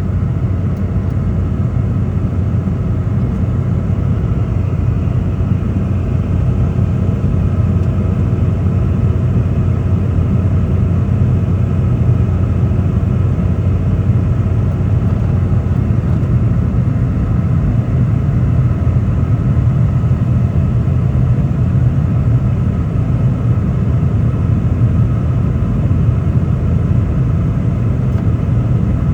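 Cabin noise inside a Boeing 717-200 from its rear-mounted Rolls-Royce BR715 turbofans: a loud, steady low rumble with a faint hum of engine tones above it.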